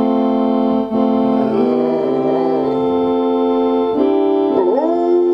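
Organ playing a hymn in held chords that change about a second in and again near four seconds in, while a dog howls along in wavering, sliding notes, with a swooping howl near the end.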